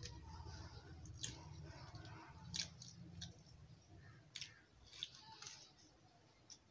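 Faint chewing of a bite of fried bread pakoda, with a handful of sharp clicks at irregular moments.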